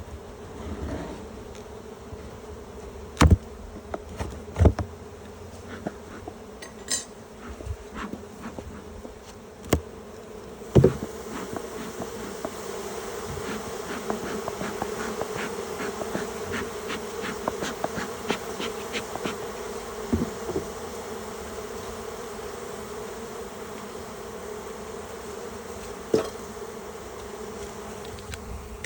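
Honeybee colony buzzing in an opened hive, a steady hum that swells about ten seconds in, with several sharp knocks from the hive being handled.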